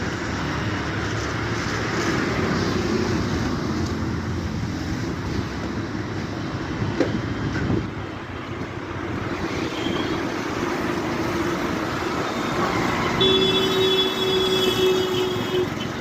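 Vehicle engines running amid road traffic noise, with a brief knock about seven seconds in and a steady tone sounding for a few seconds near the end.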